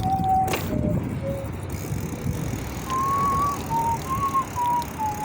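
A person whistling a tune: a string of short, clear notes stepping up and down, over a steady low rumble of wind and tyres from riding a bicycle. A sharp click sounds about half a second in.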